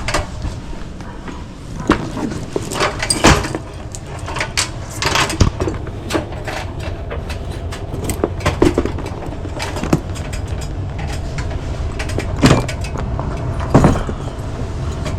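Tools and gear being rummaged through and handled: scattered clicks, knocks and clinks with some jangling, over a steady low rumble.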